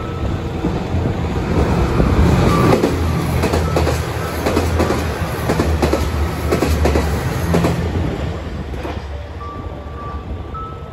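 Diesel train passing close along the platform: a low engine rumble and wheel noise that swell to their loudest a couple of seconds in, with wheels clicking over rail joints, then fade away after about eight seconds.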